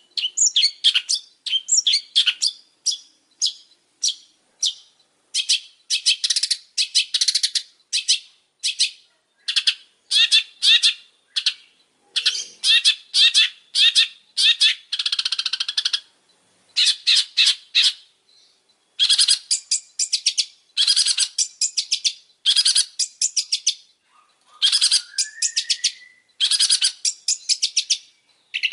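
Long-tailed shrike (pentet) singing: rapid runs of high chattering notes in short bursts, one after another with brief gaps, and a rising glide about 25 seconds in.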